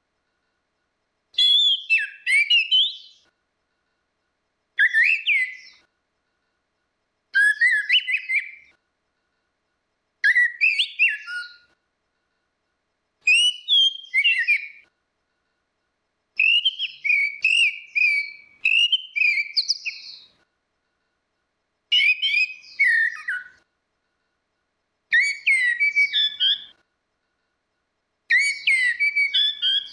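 Orange-headed thrush singing: about nine short, varied whistled phrases, one every three seconds or so, with clean gaps of silence between them.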